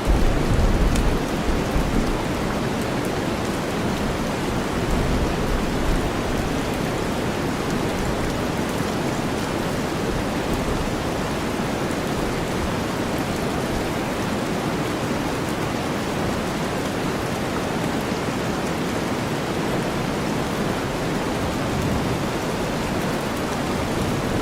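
Steady heavy rain blended with deep white noise, an even hiss. A low rumble of thunder rises at the very start and again, more weakly, about five seconds in.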